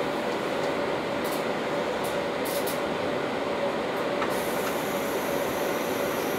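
Steady hum and rumble of a passenger train standing at the platform with its doors shut, heard from inside the carriage, with a faint high whine joining about four seconds in.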